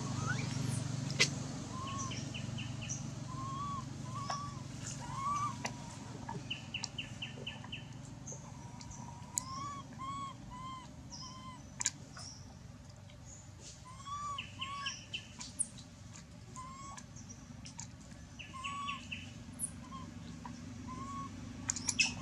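Several wild birds calling: short arched whistled notes repeating in ones and twos, quick chirping trills and thin high notes, over a low steady hum. A few sharp clicks stand out, about a second in, midway and near the end.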